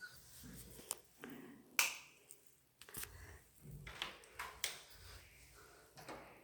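Faint, scattered clicks and light knocks at irregular intervals, the sharpest about two seconds in and again near the middle.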